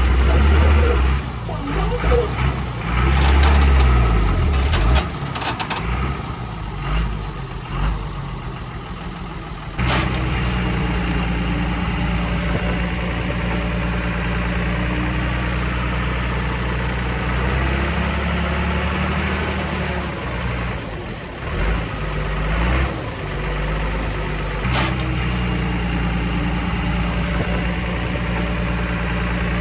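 Heavy diesel engine of earthmoving machinery running. For about the first ten seconds it is uneven, with surges in engine speed and scattered knocks. It then changes suddenly to a steady, even drone.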